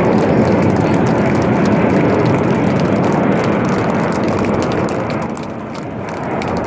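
BAE Hawk T1 jets of the Red Arrows flying past, a loud, steady jet roar that eases briefly near the end and then builds again.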